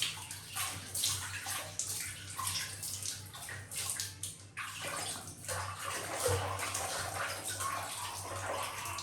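Water splashing and running, as in a tub or basin being filled or used for washing, with irregular splashes throughout.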